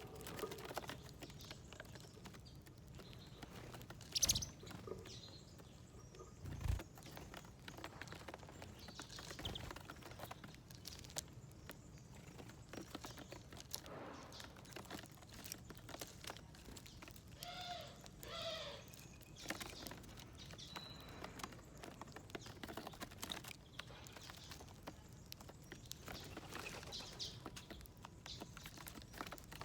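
Small wild birds feeding on seeds at a feeding plate: a steady scatter of light pecking taps and clicks, with two louder knocks around 4 and 7 seconds in and a few short chirps about 18 seconds in.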